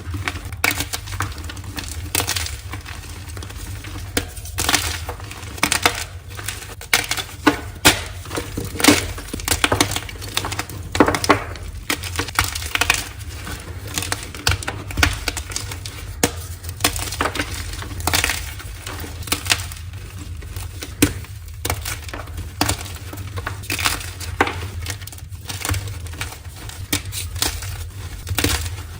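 Dyed gym chalk being crushed: crunchy, irregular crackling and crumbling, with sharper snaps every second or so.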